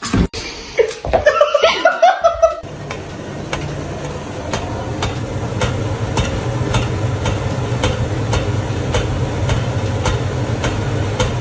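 A person laughs briefly. A steady low rumble follows, with faint ticks about once or twice a second.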